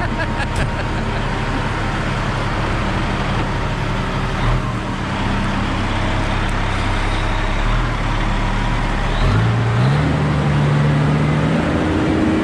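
Diesel engine of a loaded log truck running steadily, then revving up about nine seconds in as it pulls away under load.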